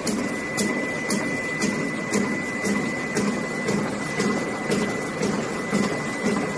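Refrigerator fin punching press running continuously, its strokes coming as regular sharp clicks about twice a second over a pulsing rumble, with a steady high whine underneath.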